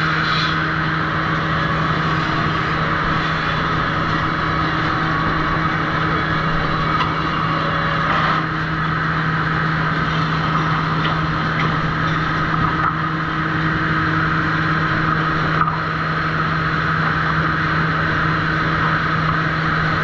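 Sawmill trim saw machinery running steadily, a constant loud mechanical hum and drone with a few faint knocks.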